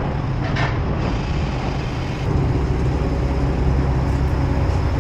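BMW engine idling with a steady low rumble, getting a little louder about two seconds in.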